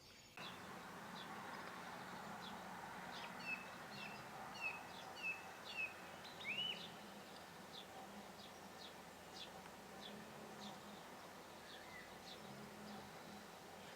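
House sparrow chirping: a run of short, sharp chirps, loudest and closest together about four to seven seconds in, then sparser and fainter.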